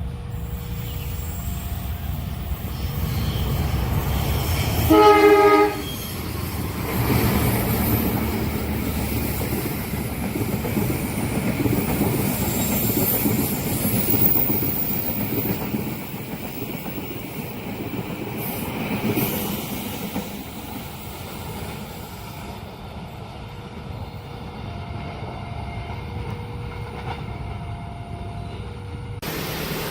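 Passenger train rushing through a curved level crossing. The locomotive gives one short horn blast about five seconds in, then the carriages pass with wheel clatter and at times a high squeal of wheels on the curve, dying away near the end.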